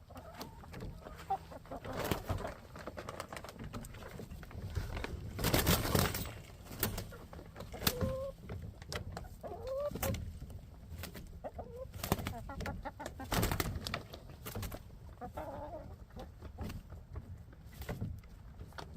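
Hens clucking softly with short calls while they peck at scattered black soldier fly larvae, with many sharp pecking clicks and a louder burst of rustling about six seconds in.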